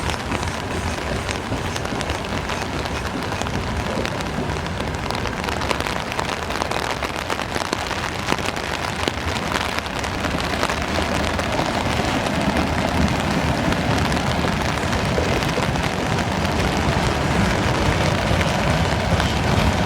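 Freight train wagons rolling past, a steady rush of wheel-on-rail noise with many small clicks and rattles, growing louder and heavier in the second half.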